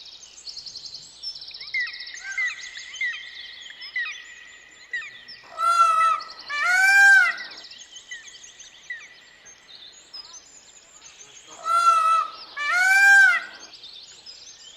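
Small birds chirping and trilling throughout, with a louder two-part arching call heard twice, about six seconds apart.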